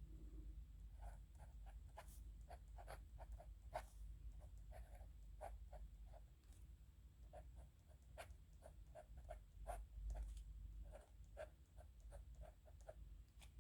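Pen writing on paper: faint short scratching strokes, several a second, in irregular runs, over a faint low hum.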